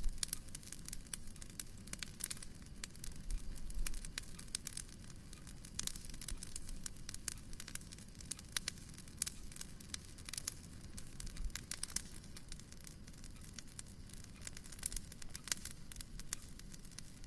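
Wood fire crackling in a fireplace: dense, irregular pops and snaps over a low steady rumble.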